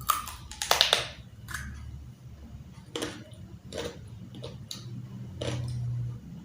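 Close-up eating sounds: a series of crunchy bites and wet chewing, the loudest crunch about a second in.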